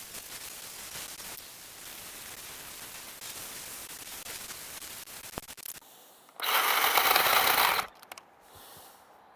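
Black & Decker LCS1020 20V MAX 10-inch cordless electric chainsaw cutting into a tree, a steady rasping hiss of chain through wood for about six seconds. Then a loud burst of the motor running at full speed for about a second and a half.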